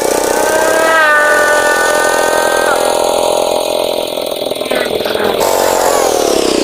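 Tractor engine working a rice paddy, running at high revs: its pitch climbs in the first second, holds steady, then drops away near the end as the engine slows.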